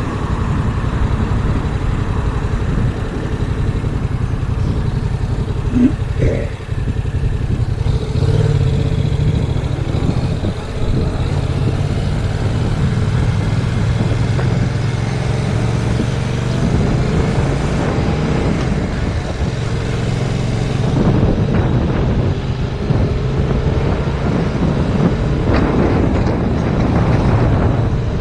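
2019 Yamaha MT-07's 689 cc parallel-twin engine running while riding, its note shifting a few times, under heavy wind noise on the GoPro microphone.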